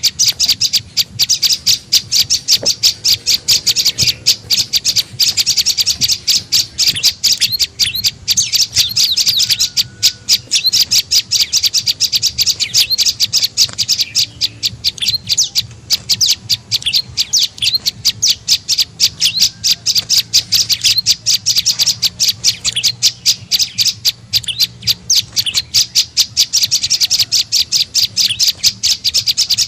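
Prenjak lumut calling: a rapid, unbroken run of sharp, high chirps, about five a second, played as a lure call.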